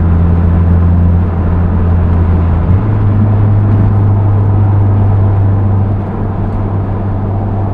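Honda S2000's four-cylinder engine and Milltek dual exhaust heard inside the cabin with the top up: a steady low hum from lugging the engine at low revs, the slight exhaust note that shows under load. About three seconds in the pitch steps up abruptly and then holds.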